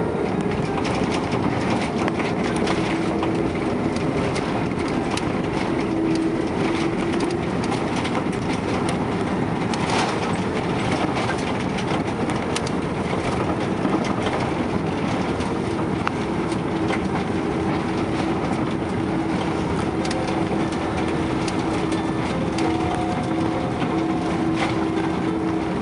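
Steady rumble heard inside the cabin of an Airbus A330 airliner as it lands, with a humming tone that comes and goes and scattered clicks and rattles of cabin fittings. There is one sharper knock about ten seconds in.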